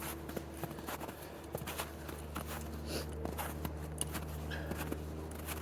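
Footsteps in snow on a hiking trail: many irregular short crunches and clicks, over a steady low hum.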